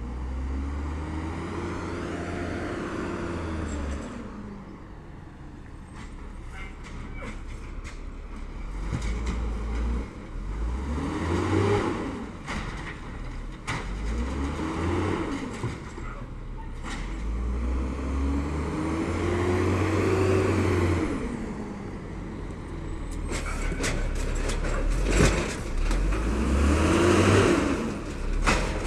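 Garbage truck's diesel engine revving up and dropping back in repeated swells, about five times, with knocks and clatter in between, the pattern of the engine speeding up to drive the hydraulics while carts are lifted and dumped.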